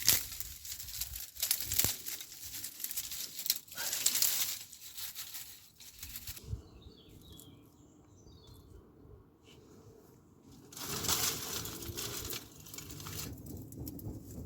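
A plastic freeze-dried meal pouch crinkling and rustling as it is handled, in bursts, with a quieter stretch about halfway through.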